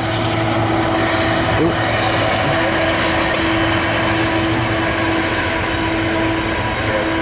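Norfolk Southern intermodal freight train rolling past: a steady, loud rumble of wheels on the rails with a held tone over it.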